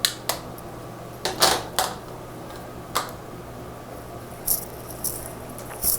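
Irregular sharp clicks and taps of small objects being handled and set down, about eight over a few seconds, over a steady low hum.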